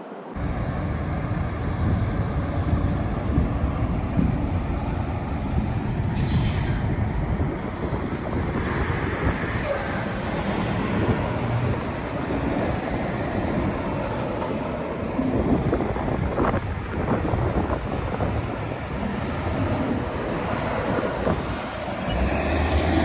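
Semi-trucks running on a highway: steady, loud, low engine and tyre noise, with a short hiss about six seconds in.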